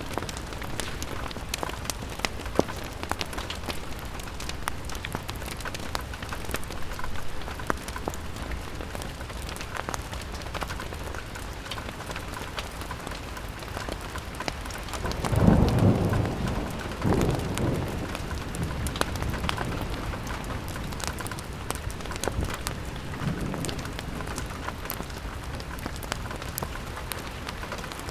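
Steady rain on a window, peppered with sharp drips and crackles. A low rumble of thunder swells about halfway through, with a smaller second roll just after.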